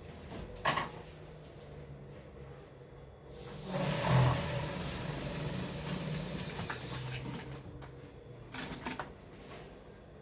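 Sewing machine running in one stretch of about four seconds, starting a few seconds in, over a low steady hum, with a single click near the start.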